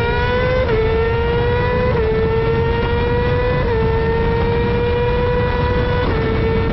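A sportbike's inline-four engine running at high revs under hard acceleration. Its pitch climbs slowly and dips sharply with each of four quick upshifts, spaced about one to two seconds apart.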